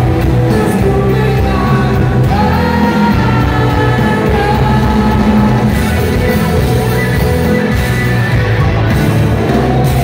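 Live rock band playing loudly with a male singer, heard from the audience in a large hall, with distorted guitars and drums and the vocal sliding between held notes.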